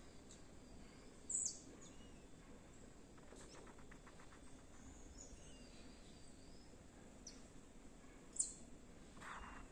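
Quiet outdoor background with faint bird calls, two short, high chirps standing out about a second in and near the end.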